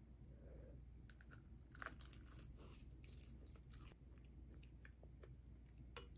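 Faint chewing of ramen noodles, with a few light clicks of chopsticks against the dishes and one sharper click about six seconds in.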